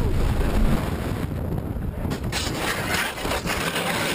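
Car driving, with heavy low road and engine rumble, which gives way about two seconds in to a harsher rasping, scraping noise.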